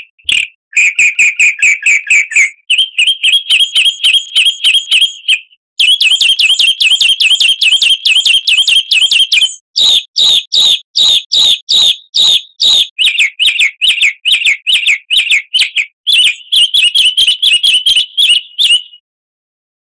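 A songbird sings rapid, loud trills of repeated chirping notes in several phrases of about three seconds each, with brief pauses between them. The song stops near the end. It is a busy, 'full isian' gacor song of the kind played as a lure to set caged birds singing.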